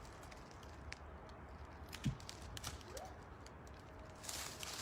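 Footsteps on the woodland floor, with scattered light crackles of dry leaves and twigs underfoot and one heavier thump about two seconds in, over a low steady rumble.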